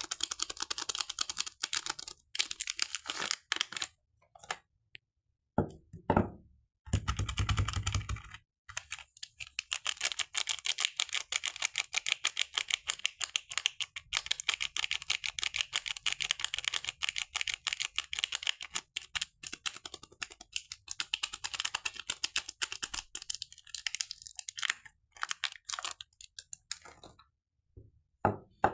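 Close-miked soap packaging being handled and unwrapped: rapid crinkling and clicking, broken by a few short pauses, with a heavier, deeper rustle of handling about six to eight seconds in.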